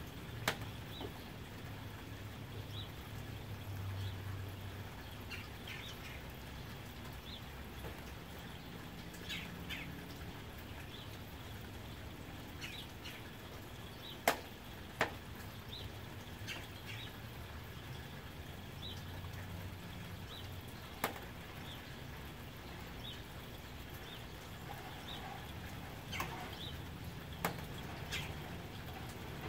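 Soft rain falling steadily on a tin roof, with a few sharper drops striking now and then, the loudest about halfway through. Faint bird chirps come through in the background.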